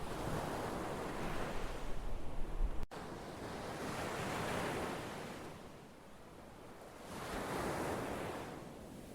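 Ocean surf: waves washing in and pulling back in surges a few seconds apart. A surge breaks off with a sudden brief dropout about three seconds in, a second builds and fades, and a third swells near the end.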